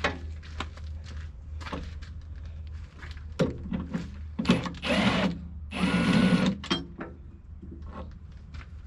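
Metal knocks and clanks from hand work on a track loader, with a louder stretch of clattering and ringing from about three and a half to seven seconds in, over a steady low hum.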